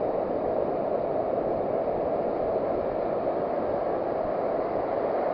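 Steady rushing noise of beach surf, even throughout with no distinct strikes.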